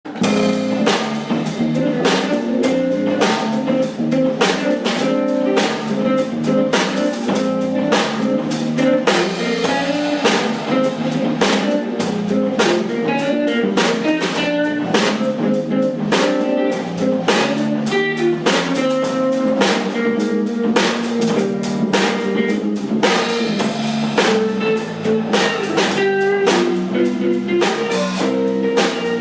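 Live band music with guitar and a drum kit keeping a steady beat, in a blues style.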